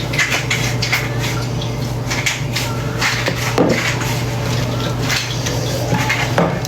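Light clatter of kitchen utensils and bowls, a series of irregular knocks and clinks, over a steady low hum.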